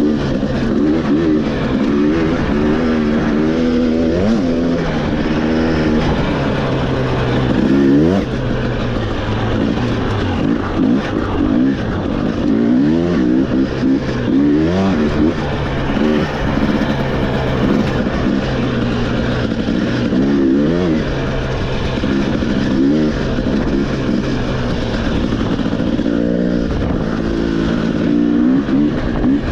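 Off-road motorcycle engine running on a trail ride, its pitch repeatedly rising and falling with throttle and gear changes.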